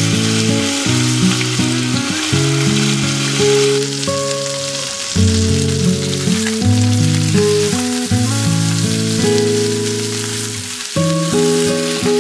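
Chicken pieces and sliced ginger sizzling as they fry in sesame oil and olive oil, the sizzle louder for the first four seconds or so. Soft background music with sustained low notes plays over it.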